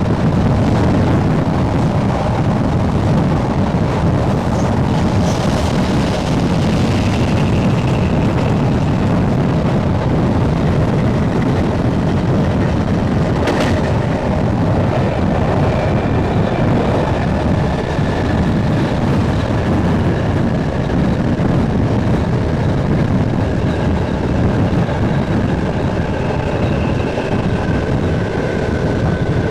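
SNCB AM80 electric multiple unit running at speed between stations: a steady, loud rumble of wheels and running gear with its traction motors, and faint high tones rising and falling. A single sharp click comes about thirteen seconds in.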